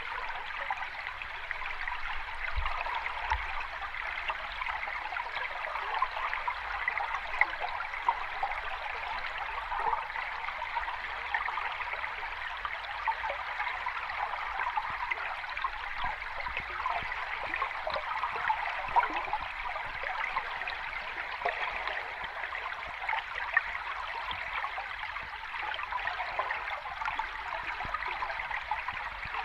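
Running water, a steady dense trickling and splashing with a few brief louder splashes, without any clear rise and fall of breaking waves.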